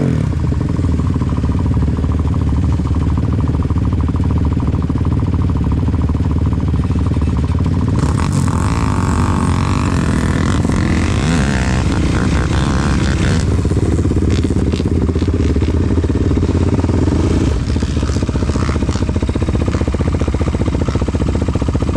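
ATV engine running steadily, picking up and sounding busier for a few seconds near the middle before settling back.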